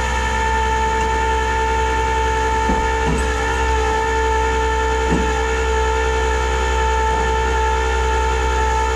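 Tow truck's hydraulic winch system running under load with a steady whine at a constant pitch, pulling a vehicle up onto the bed.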